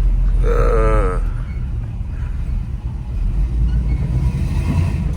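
Steady low engine rumble from a classic truck driving slowly. About half a second in, a short voice-like sound falls in pitch.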